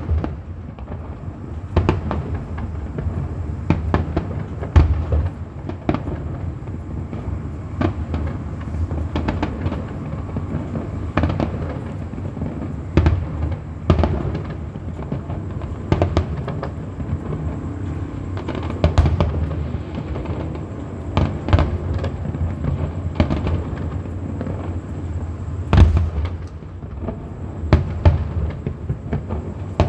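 Aerial fireworks bursting in a display: a continuous run of bangs and booms at irregular intervals over a steady low rumble, with several louder booms spread through.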